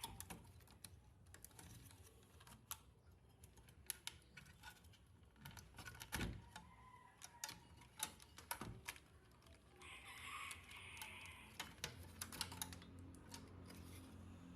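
Faint, irregular light clicks and taps of small hard objects being handled, with a brief scratchy rustle about ten seconds in.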